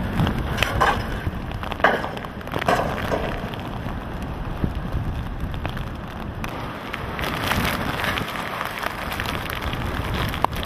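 Hurricane wind and driving rain: a steady rush of rain with heavy wind rumble buffeting the microphone, and a few sharp bursts in the first three seconds.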